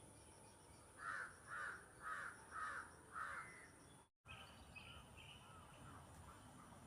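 A bird giving five loud calls in an even series, a little under two a second. The sound then cuts out for a moment, and faint chirping follows.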